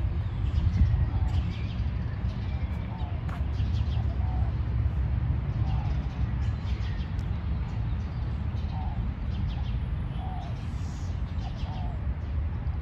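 Birds chirping in a park, short calls repeating every second or two, over a steady low rumble.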